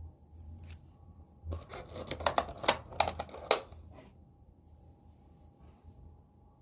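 A burst of rustling and sharp clicks, as of something being handled, lasting about two and a half seconds, over a faint steady hum.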